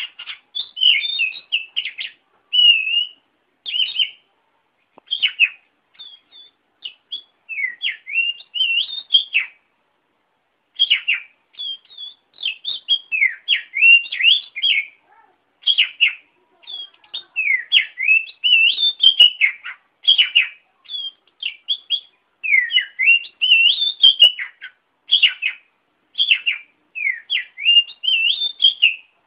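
A songbird singing a fast, varied song of whistled chirps and swooping notes, delivered in short phrases with brief pauses between them.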